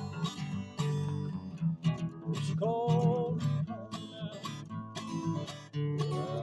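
Music with strummed acoustic guitar, a held melody line bending in pitch about halfway through.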